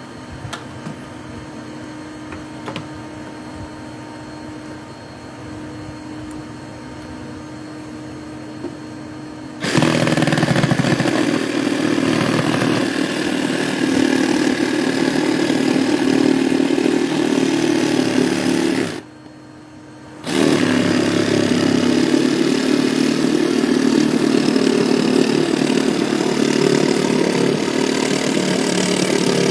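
A motor switched on about ten seconds in, running steadily and loudly, cut off for about a second near two-thirds of the way through, then running again.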